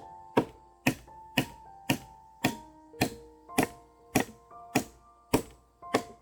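Sharp, evenly spaced knocks, about two a second, over soft background music with held keyboard notes; the knocks stop near the end while the music goes on.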